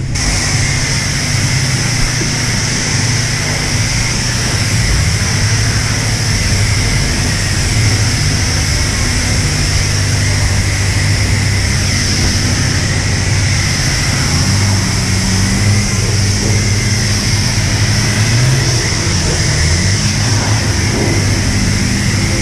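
Self-serve car wash pressure wand spraying: a loud, steady hiss of high-pressure water, with the low hum of the pump underneath.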